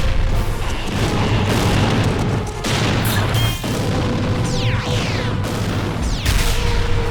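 Action-cartoon battle sound effects over a dramatic music score: deep booms and a heavy low rumble, several sharp impacts, and a few falling whooshes in the second half.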